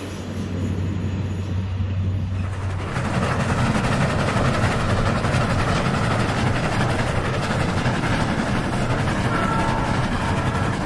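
Union Pacific train with a heritage-fleet passenger car rolling past, its wheels rumbling on the rails over a steady low hum. About three seconds in, the sound changes suddenly to a brighter, denser clatter that carries on to the end.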